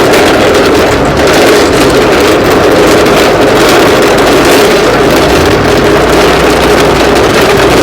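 Vehicle engine running loud and steady.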